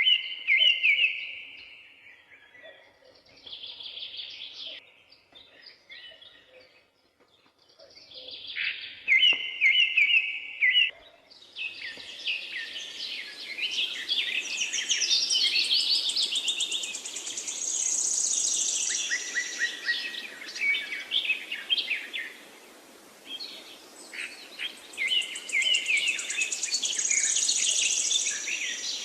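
Several songbirds singing and calling in short repeated phrases. About halfway through, more birds join in a dense overlapping chorus over a steady background hiss.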